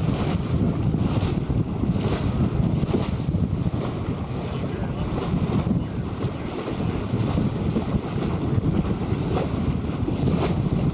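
Wind buffeting the microphone aboard a sailboat under sail, a heavy, gusting rumble, with water washing past in short hissing splashes.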